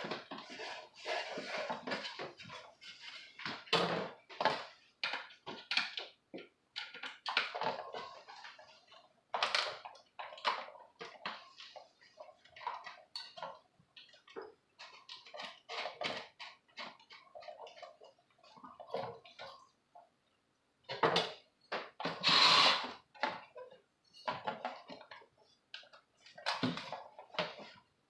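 Irregular clinks, knocks and rattles of the clock's parts being handled and worked on, with a short pause and then a louder, longer noisy sound about 22 seconds in.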